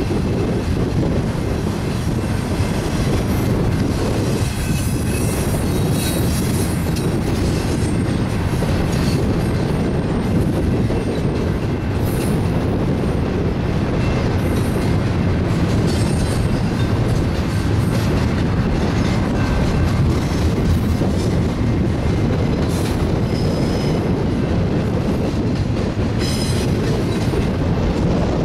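BNSF double-stack intermodal train rolling past: a steady, loud rumble of well-car wheels on the rails. Short high-pitched wheel squeals come and go throughout.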